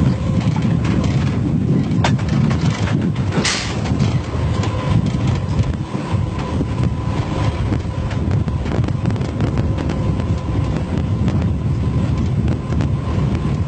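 Commuter train running along the line: a steady low rumble with a faint constant hum, a sharp click about two seconds in and a short hiss a moment later.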